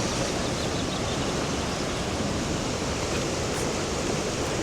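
Steady roar of the Rhine Falls, a large waterfall of rushing water, as a dense even noise with no let-up.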